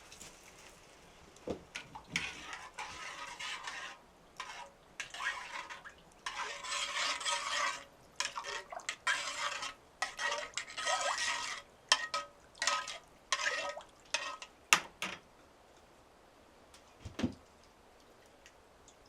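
Dishes and utensils clinking and scraping in irregular bursts with short pauses, stopping about fifteen seconds in, followed by a single dull knock.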